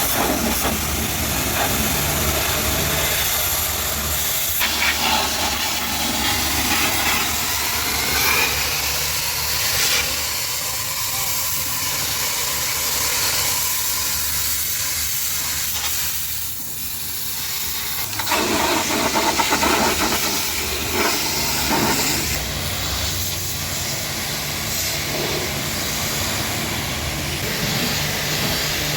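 High-pressure washer spraying water: a steady hiss of the jet with the washer's pump motor humming underneath. The hiss changes in tone a few times as the spray moves.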